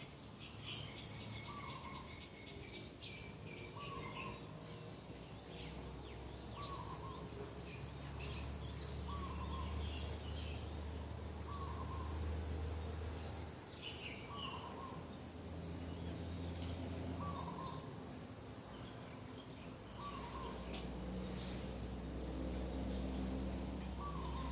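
Birdsong: one bird repeats a short single note about every two seconds, while other birds chirp higher and more irregularly, over a low steady hum.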